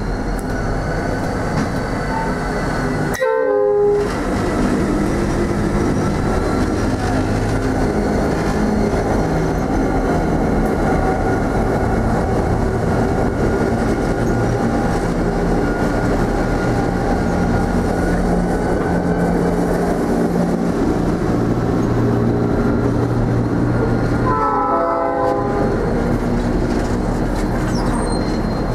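A wheat train hauled by 81 class diesel locomotives passing at close range, engines running and then hopper wagons rolling by with clickety-clack. A train horn sounds about three seconds in, and a fainter, shorter horn sounds near the end.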